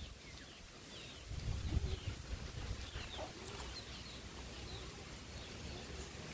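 Faint outdoor ambience of small birds chirping, many short downward chirps scattered throughout, with a brief low rumble about a second and a half in.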